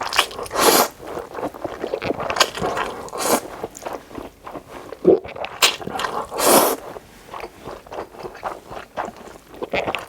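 Close-miked eating: irregular bites, chewing and wet mouth sounds, with a few louder longer bursts.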